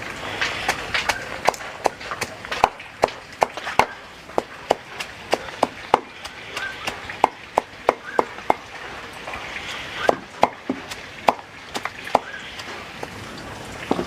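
Blade chopping on a wooden board: a run of sharp, irregular strokes, about two a second, with a short break after about eight seconds before a few more.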